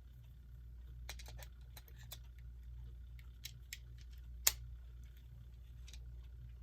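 Small, sharp plastic and metal clicks from a quartz clock movement being handled as a battery is pressed into its holder: a quick cluster about a second in, then a few scattered clicks, the loudest about four and a half seconds in.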